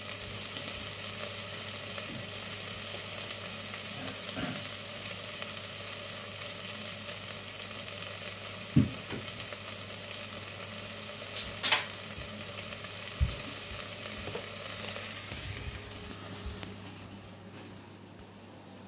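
Chicken and tomato salsa frying in a pan, a steady sizzle, with a few short knocks. The sizzle fades near the end.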